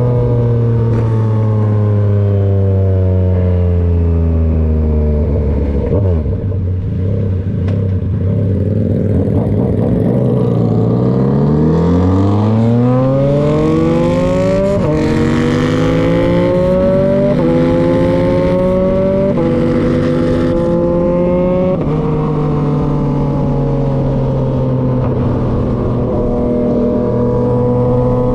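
Yamaha XSR900 engine through an aftermarket SC-Project CRT exhaust, revs falling as the bike slows, then a hard pull up through the revs with three quick upshifts, each a step in pitch, before it settles to a steady cruise.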